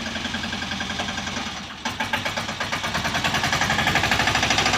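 Engine of a three-wheel sanedo-style mini tractor running with an even, rapid pulsing beat. It dips briefly about two seconds in, then comes back louder and grows gradually stronger.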